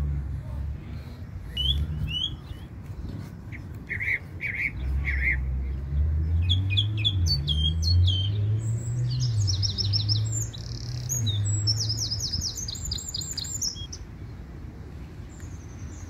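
Birds chirping in quick high calls and trills, thickest in the middle of the stretch, over a low droning rumble.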